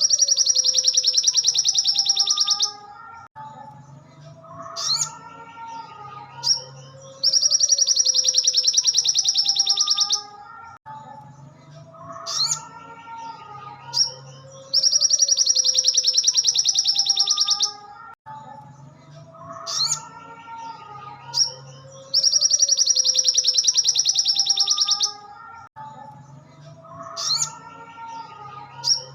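Looped birdsong training recording of a sogon (sogok ontong, the little spiderhunter): a loud, rapid, high-pitched trill lasting about three seconds, then a few seconds of shorter, varied chirps, the whole phrase repeating about every seven and a half seconds, four times over.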